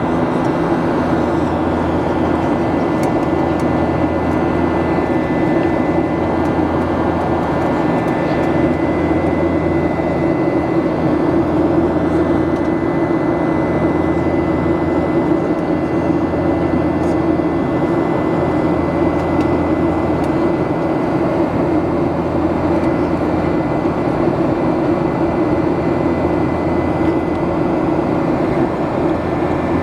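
Steady roar of jet engines and rushing air inside the cabin of a Boeing 737 airliner in flight after takeoff, with a low hum and a thin steady whine above it.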